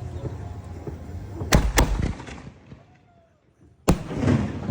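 Canister shell fireworks going off: two sharp bangs in quick succession, then after a short lull a single sharp bang followed by crackling.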